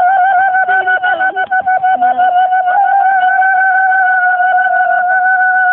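A single high, steady held note with a flute-like tone, stuttering with quick breaks in its first half and then held evenly.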